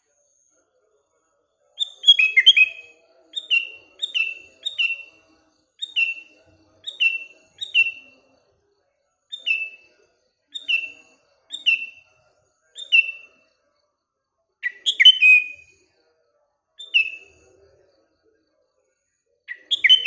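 Sooty-headed bulbul (kutilang) calling in a loose series of short, clear whistled notes that slide downward, about one a second. A few quicker double notes come in about two seconds in and again near the middle.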